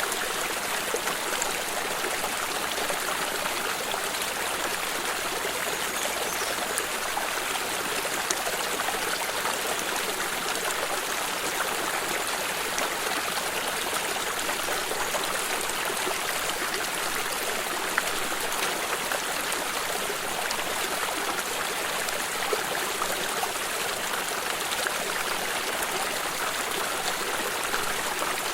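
A small stream running steadily over stones, with an even rushing and faint trickles and splashes.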